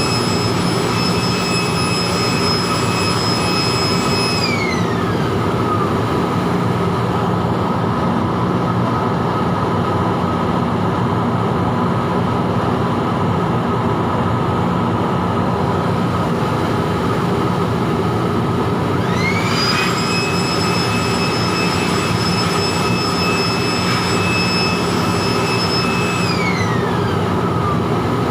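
Electric air blower running with a high whine, which winds down about five seconds in, spins back up about twenty seconds in and winds down again near the end. A steady loud machine rumble carries on underneath.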